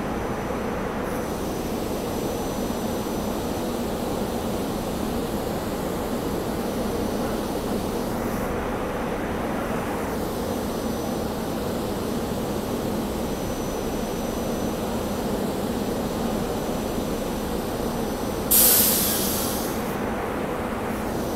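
SEPTA Regional Rail electric railcar standing at the platform, its onboard equipment giving a steady hum with a faint high whine. Near the end comes a sudden loud hiss of air that fades over a second or so.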